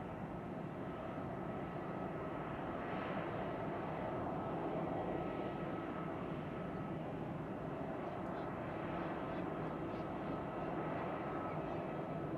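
Airbus A320's CFM56 jet engines running steadily, a broad rumble with a faint constant whine above it.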